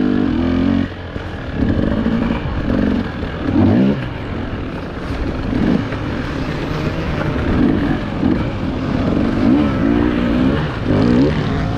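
Enduro motorcycle engine revving up and down again and again, the pitch rising and falling every second or so as the throttle is worked.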